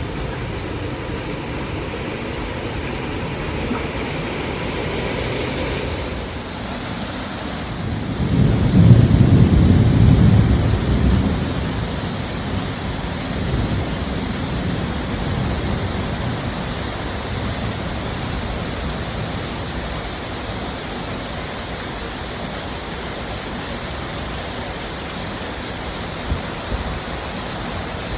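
Heavy rain pouring steadily, with a deep rumble of thunder swelling and fading about eight seconds in.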